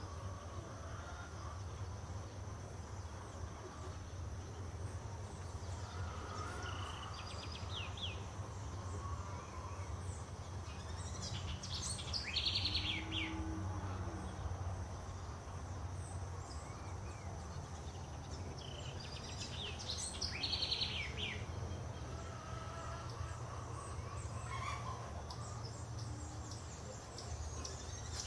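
Wild birds calling: a high, rapid chattering call about twelve seconds in and again about twenty seconds in, with a few fainter chirps between. Underneath runs a steady high insect hum and a low outdoor rumble.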